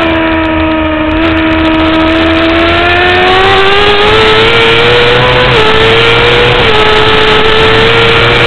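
2009 Kawasaki ZX-6R's inline-four engine running hard at high revs under a steady rush of noise. Its pitch climbs gradually, then dips slightly twice before holding steady.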